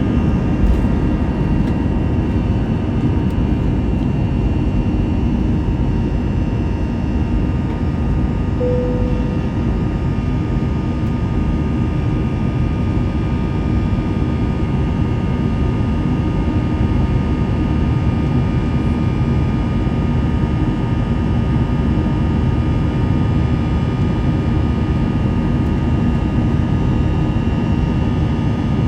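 Steady jet engine and airflow rumble inside the cabin of an Airbus A321 in flight, with fixed engine tones running through it. A short single tone sounds about nine seconds in.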